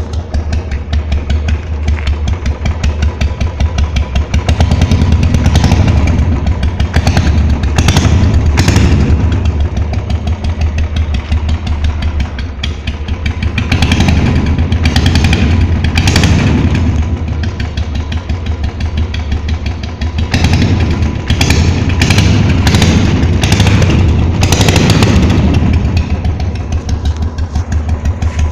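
Royal Enfield Classic 350 single-cylinder engine running with no exhaust fitted, a loud rapid stream of firing pulses. It is revved up and let back down several times, around a quarter of the way in, in the middle and again in the last third.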